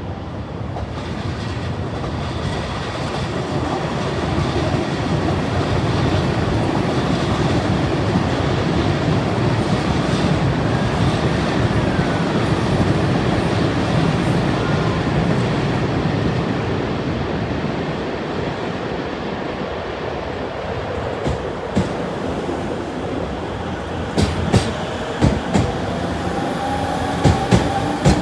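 Electric limited express train running past at speed: a dense rumble of wheels and motors that swells for about ten seconds and then eases, followed near the end by sharp, quickening clacks of wheels over rail joints.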